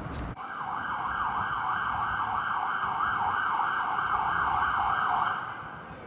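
Fire truck siren sounding a fast yelp, sweeping up and down about two to three times a second, then fading out about five seconds in.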